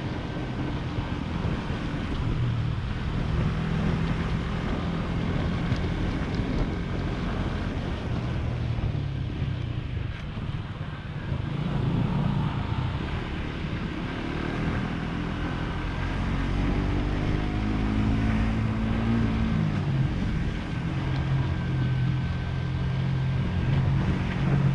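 Motorcycle engine running under way, its pitch shifting up and down with the throttle and falling away for a while in the second half, with wind buffeting the microphone.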